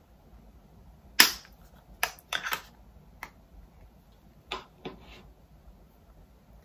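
A series of sharp clicks and taps from plastic cosmetic packaging being handled. The loudest comes about a second in, with about half a dozen lighter ones over the next four seconds.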